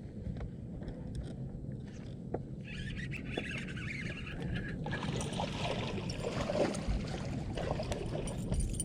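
Fishing boat on the water: a steady low rumble with scattered small clicks and knocks, and a hiss that builds about halfway through.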